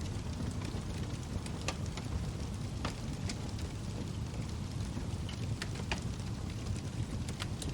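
Log fire burning in a fireplace: a steady low rumble of the flames with several sharp wood crackles and pops at irregular intervals.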